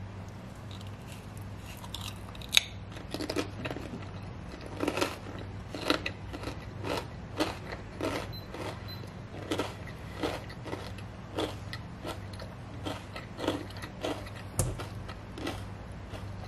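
Close-up chewing of a cracker topped with cheese, salami and a grape: one sharp crunch about two and a half seconds in, then steady crisp chewing crunches at roughly two a second.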